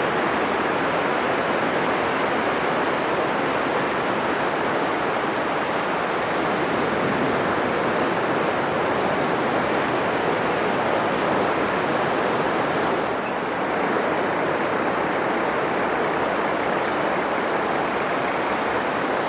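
Heavy ocean surf breaking on a sandy beach, heard as a steady, unbroken wash of noise that eases briefly about two-thirds of the way through.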